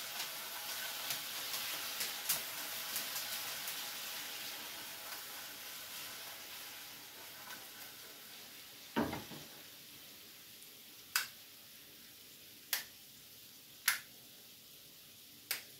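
Chicken nuggets in a sugary chili-and-barbecue sauce sizzling in a frying pan as the pan is tossed over a gas burner, the sizzle dying down steadily. About nine seconds in comes a dull knock, then four sharp clicks near the end.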